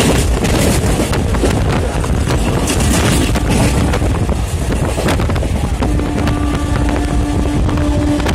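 Electric multiple-unit suburban train running fast, heard from inside through an open window: a steady rush of wind and rumbling wheels, with wind buffeting the microphone. About six seconds in, a steady humming tone joins.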